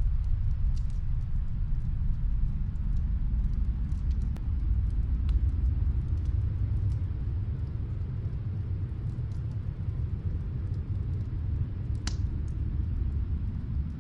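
Snowstorm wind as a steady low rumble, with faint, sparse crackles from a wood fire and one louder crack about twelve seconds in.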